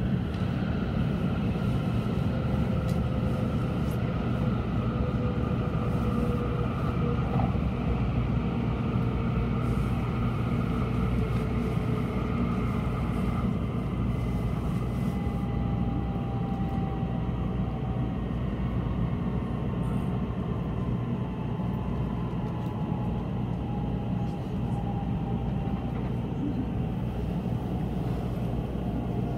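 N700-series Shinkansen running at speed, heard inside the passenger cabin: a steady rumble and rush of noise, with faint whines gliding slowly down in pitch.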